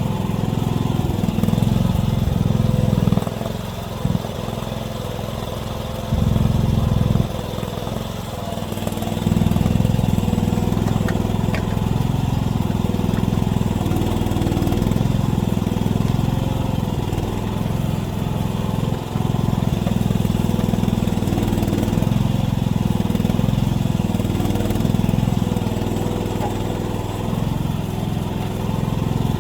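AGT mini excavator's engine running steadily. Its sound drops and rises in steps a few times in the first ten seconds, as when the machine works under changing load.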